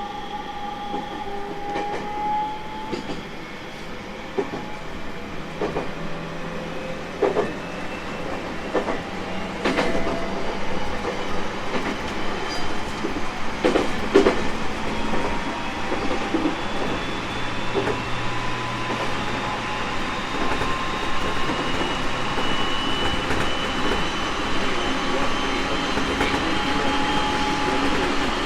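Onboard running sound of a 701 series 1000-subseries electric train: its inverter and traction motors whine in several tones that slowly rise in pitch as it gathers speed, with the noise of the running gear growing louder. A few sharp knocks of the wheels over rail joints come in the first half.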